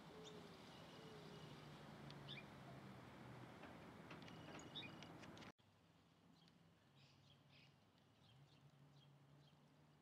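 Faint, scattered chirps and short whistled notes of small birds over a low steady hum. The background drops much quieter a little past halfway, with the faint chirps carrying on.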